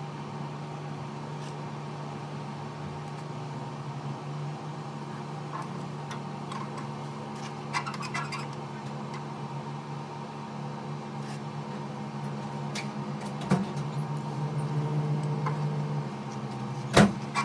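A steady machine hum, with scattered light clicks and scrapes and a sharp knock about a second before the end.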